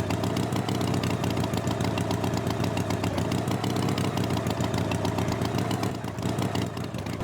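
Engine idling with a steady, fast chugging, a little quieter near the end.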